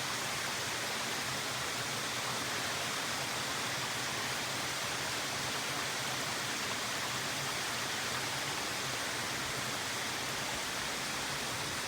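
A steady, even rushing hiss with no breaks or distinct events.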